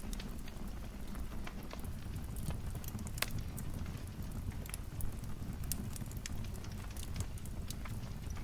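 Wood fire in a fireplace crackling and popping: irregular sharp pops over a steady low rumble of flames, with a louder pop about 3 seconds in and another about 5 seconds in.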